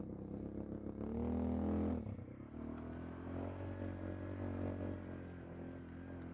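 ATV engine revving up for about a second, then dropping back and running steadily.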